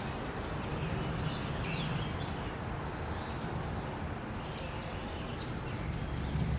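Steady, high-pitched insect chorus of crickets, one continuous trill with a second, higher buzz that comes and goes several times.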